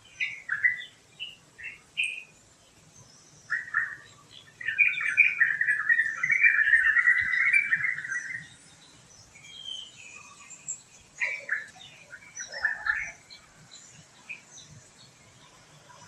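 Wild birds chirping and calling, with a long run of rapid, chattering song in the middle lasting about four seconds and scattered short chirps around it.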